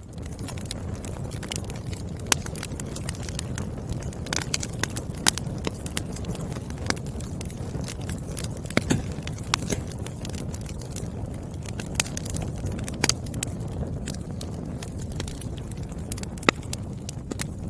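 Wood fire burning: logs crackling with frequent irregular snaps over a steady low rumble of flame, and now and then a louder sharp pop.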